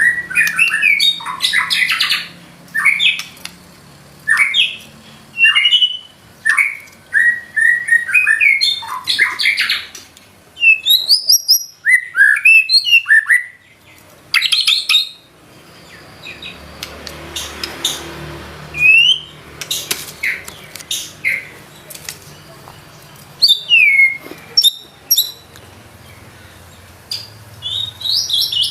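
White-rumped shama singing in quick bursts of varied whistled phrases, with sharp rising and falling notes and short pauses between bursts. It is a fast run of mimicked phrases learned from other birds.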